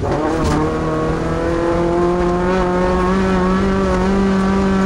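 Off-road race truck engine running hard at high revs, its pitch climbing a little about two seconds in and then holding steady. There is a short knock about half a second in.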